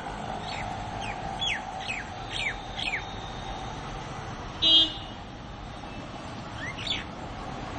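Common mynas chirping at a window: a run of quick, falling chirps, then a single rising chirp near the end, over a steady background hum. About halfway through, a brief loud toot cuts in; it is the loudest sound.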